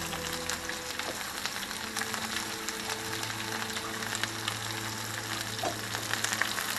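Chopped onion and halved cherry tomatoes sizzling in oil in a nonstick frying pan, with a steady hiss full of small crackles and pops.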